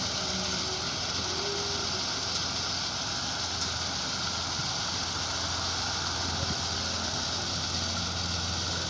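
Heavy machinery engine running steadily: a constant low drone under an even hiss, with no change in speed or load.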